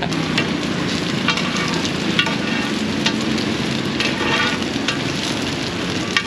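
Bột chiên (rice flour cake cubes and egg) sizzling in plenty of oil in a large flat wok over high heat. Metal spatulas scrape and clink against the pan about once a second.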